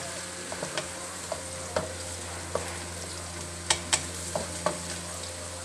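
Wooden spoon stirring food frying in a metal pan: a steady sizzle with scattered irregular knocks and scrapes of the spoon against the pan, over a steady low hum.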